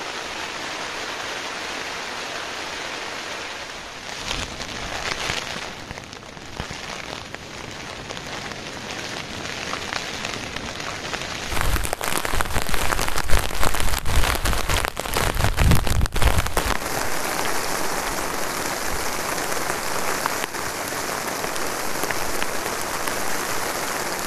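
Rain falling steadily as an even hiss. About halfway through, the sound changes abruptly to a louder, fuller patter, with a run of sharp drop impacts and low thuds for a few seconds, then settles back to steady rain.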